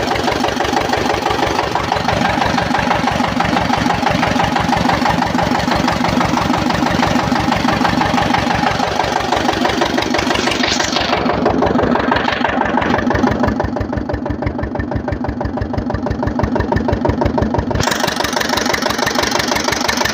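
Veer Pratap stationary engine running steadily while driving a water pump, with a fast, even beat of firing strokes. From about 11 to 18 seconds the sound goes duller, losing its top end, then returns.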